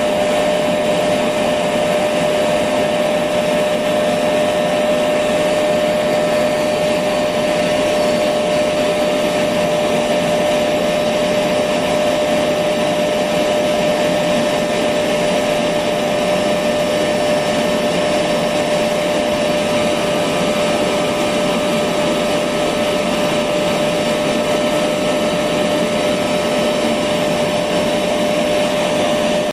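Electric vacuum cleaner running steadily, a constant whooshing motor hum with a steady whine, played as white noise to lull a baby to sleep.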